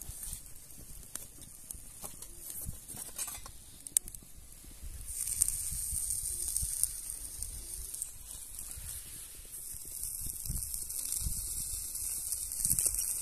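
Food frying in hot oil in a pan: a steady high sizzle that comes up about five seconds in, after a few sharp clicks.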